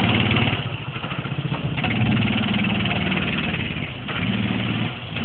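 Small single-cylinder mini bike engine running as it is ridden, the throttle opening and easing off several times so the engine note rises and falls.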